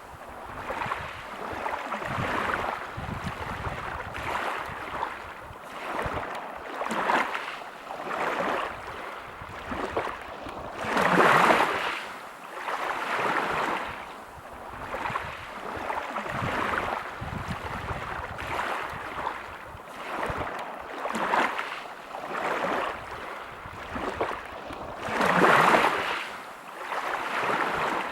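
Sea waves breaking and washing over a pebble beach, swelling and ebbing every second or two, with two bigger waves surging louder about midway and near the end.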